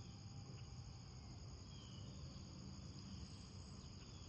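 Crickets chirring faintly and steadily in a continuous high trill.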